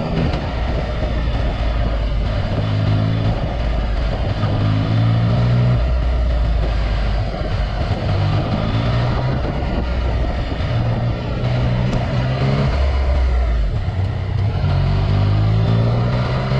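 2018 Yamaha XSR900's three-cylinder engine through an Akrapovic carbon full exhaust system, under way. The engine note climbs and drops back several times as it accelerates and shifts.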